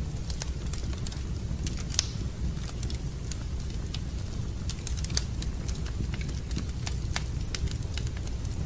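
Wood fire crackling in a fireplace: irregular sharp pops and snaps over a steady low rumble, the loudest snap about two seconds in.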